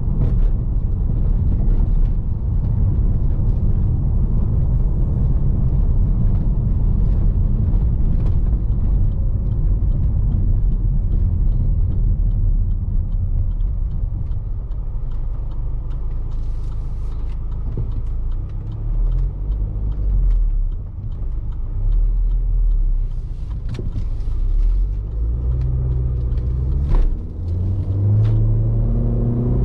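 Range Rover Evoque's 2.0 turbocharged four-cylinder petrol engine and tyre rumble, heard from inside the cabin while driving. A few sharp knocks come from the road surface late on. Near the end the engine note climbs in steps as the car accelerates through the automatic's gears.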